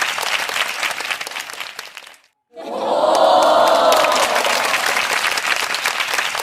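Large outdoor crowd clapping and cheering. The sound cuts out abruptly for a moment about two seconds in, then returns louder with many voices shouting together over the clapping.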